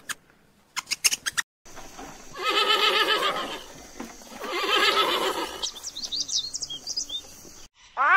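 A cat giving two long, wavering meows, each about a second, after a few short clicks; a run of short, high chirps follows near the end.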